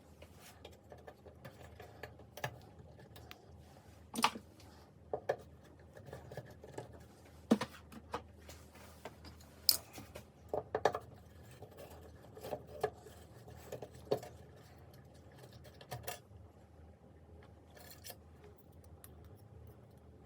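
Irregular clicks, taps and light scraping, like small hard parts or tools being handled, over a steady low hum.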